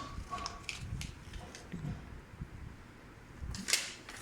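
Light clicks and handling noise from a small plastic item being turned over in the hands, with a few sharper clicks near the end.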